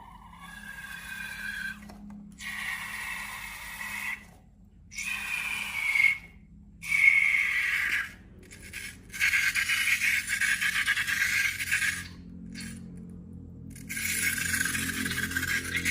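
A run of short scraping, rubbing and squeaking sounds from handling slime and balloons, each cut off abruptly and followed by the next.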